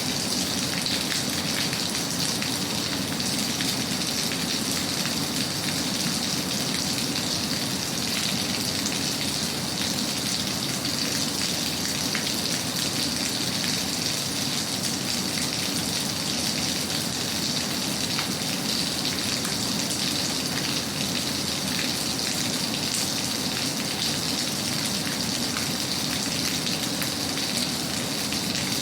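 Steady rain falling: a continuous even hiss with many small drop taps.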